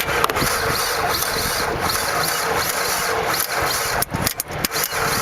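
Starter cranking the blown 2.5-litre four-cylinder of a 2003 Nissan Altima in an even repeating rhythm without the engine firing. The cranking stops about four seconds in, followed by a few sharp clicks.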